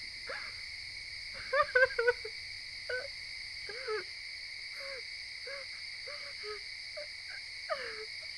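Night-time outdoor ambience: a steady, shrill insect chorus with scattered short chirping animal calls, about one every second or two.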